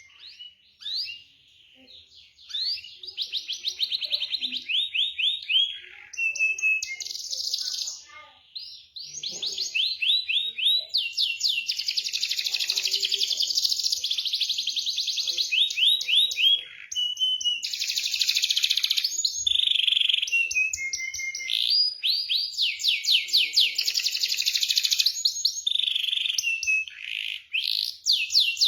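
Domestic canary singing a long, almost unbroken song of fast rolling trills and chirps.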